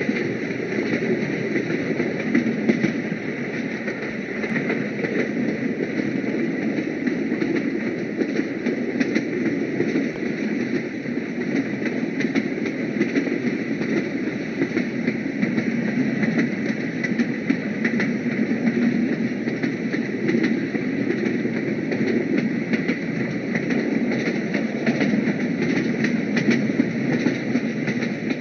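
Train running, a steady rumble with frequent rattling clicks that keeps the same level throughout.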